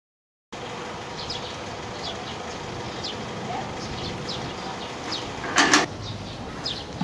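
Outdoor ambience with small birds chirping over and over in short, high, falling chirps. A little past halfway there is a short, loud double sound.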